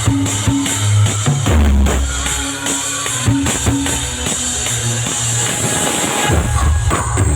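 Loud music with a heavy bass line and a drum beat, blasted from a large truck-mounted 'sound horeg' loudspeaker rig.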